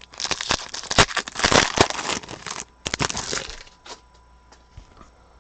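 Plastic trading-card pack wrapper crinkling and tearing as a pack is opened, with dense crackling for about three and a half seconds. A few faint ticks of cards being handled follow.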